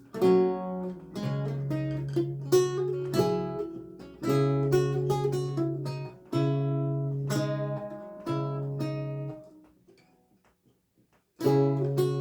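Solo lute music: a run of plucked notes over repeated bass notes. It breaks off into a pause of about a second and a half, then playing resumes near the end.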